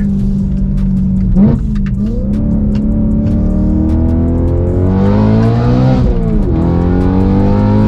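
BMW E92 M3's V8 heard from inside the cabin, pulling under acceleration, its pitch climbing steadily. About six seconds in the pitch drops sharply at a gear change and then picks up again.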